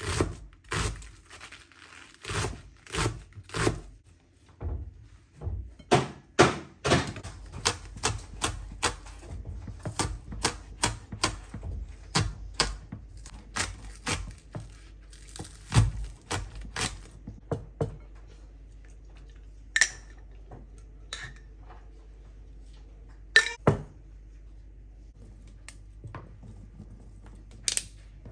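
A run of sharp knocks and clicks of hard objects being handled and set down, about two a second at first and then only now and then. A faint steady low hum comes in about six seconds in.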